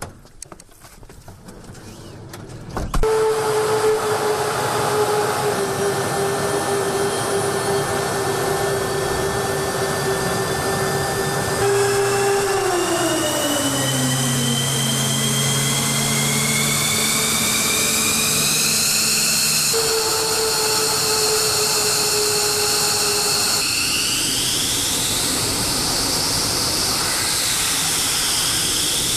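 Jet aircraft engine noise: a loud, steady rush that starts abruptly about three seconds in, with whining tones over it, one sliding down in pitch around the middle while higher ones climb, and a high whine rising and dipping near the end.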